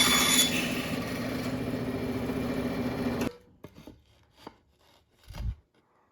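Old Craftsman bandsaw finishing a cut through wood, then running free with a steady hum for about three seconds until the sound cuts off suddenly. A few light knocks and a dull thump of wood being handled follow near the end.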